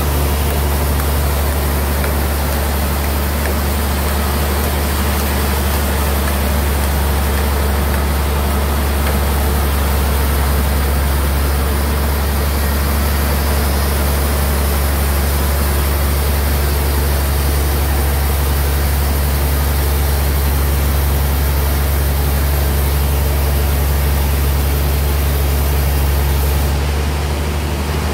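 Sawmill band saw running with a steady low machine drone and a hiss over it, easing off slightly near the end.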